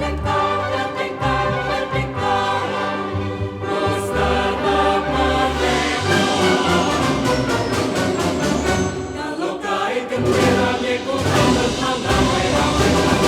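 Orchestra and choir performing together: the choir sings sustained lines over the orchestra's steady accompaniment.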